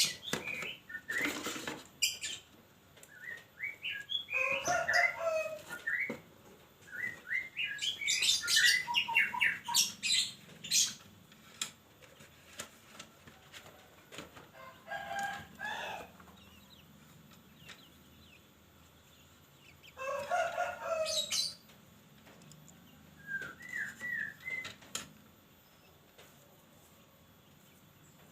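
Birds calling in several separate bouts of a few seconds each, some short runs of quick notes and some longer calls that drop in pitch at the end, with a few sharp clicks in between.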